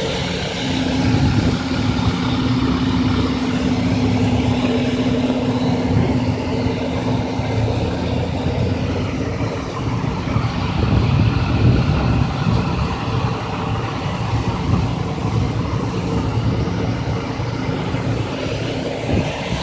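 Vehicle engines running steadily with street traffic noise, and a steady low hum that is strongest for the first few seconds.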